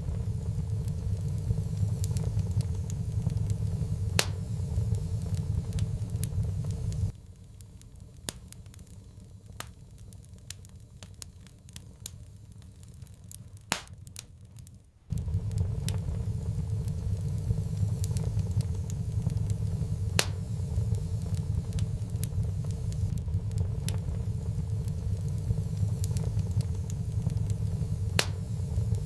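Wood fire crackling, with scattered sharp pops over a steady low rumble. The rumble cuts out abruptly about seven seconds in and comes back just as suddenly about eight seconds later, while the crackles carry on.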